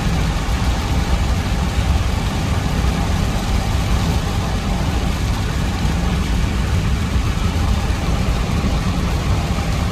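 Steady low rumble of a vehicle running, with an even hiss over it and no pauses.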